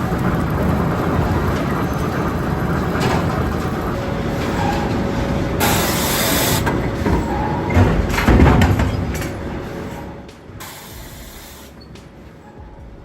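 Sawmill log-handling machinery running with a rumbling, clattering din; a burst of hiss about six seconds in, heavy knocks around eight seconds, then the noise falls away to a quieter hum.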